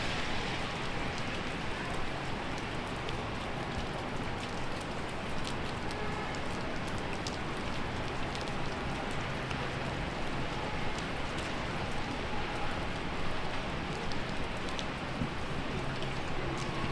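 Heavy rain falling steadily, a constant hiss dotted with sharp ticks of individual drops striking close by.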